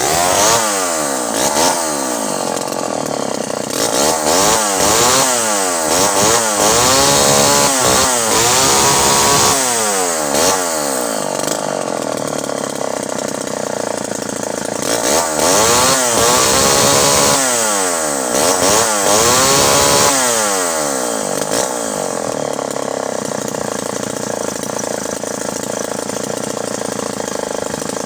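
Pioneer 1200 vintage 58cc two-stroke chainsaw engine running, revved up and down repeatedly, then settling to a steady idle after about twenty seconds. It four-strokes at the top end, and its carburettor needs tweaking.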